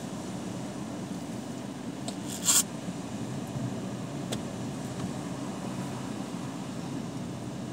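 Vehicle engine idling, a steady low hum heard from inside the cabin. About two and a half seconds in there is a brief scraping rub, and a faint click follows a couple of seconds later.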